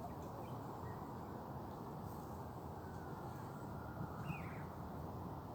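A few short, faint bird calls over a steady low background rumble, the clearest call about four seconds in.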